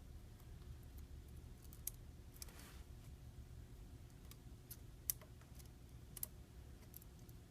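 Faint, scattered small sharp clicks of hand tools and parts against the phone's flex cable and connector, over quiet room hum; the loudest click comes about five seconds in.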